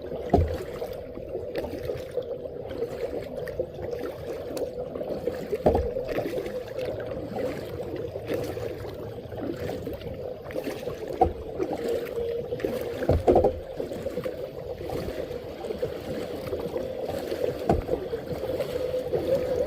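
Kayak on the water: paddle strokes and sloshing water, with a steady hum and a few short knocks against the boat, the loudest about halfway through.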